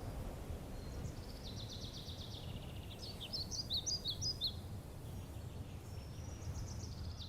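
Outdoor ambience: a steady low rumble with small birds chirping and trilling in short bursts of quick high notes, three times.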